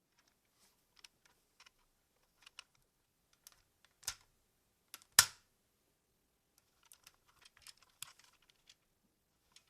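Hard plastic parts of a combining Super Sentai robot toy clicking and snapping into place as it is transformed. Scattered light clicks, with a sharp snap about four seconds in and a louder one just after five seconds.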